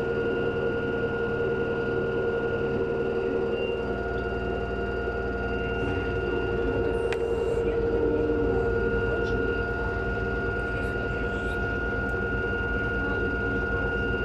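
LG washing machine running, a steady motor whine over a low drum rumble that shifts about four seconds in.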